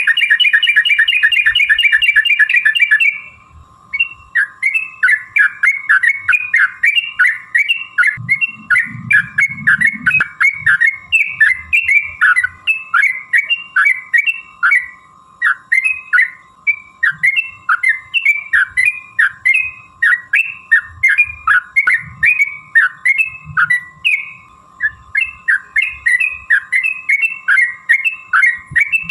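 Yellow-vented bulbul (trucukan) singing. It opens with a fast rattling run of notes for about three seconds, then gives a long series of short chirped phrases at about two a second, with a faint steady hum beneath.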